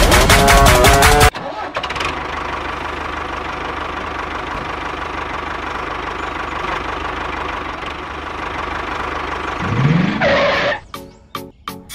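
Background music cuts off about a second in. A steady motor or engine running with a low thrum follows, and a short rising note comes near the end.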